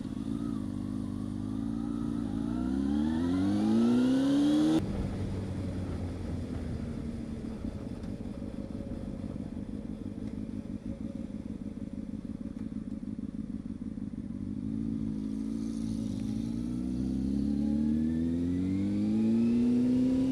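Motorcycle inline-four engine, a Honda CB600F Hornet, pulling away with its pitch rising for about five seconds. It then runs steadily at a lower pitch and climbs again slowly near the end.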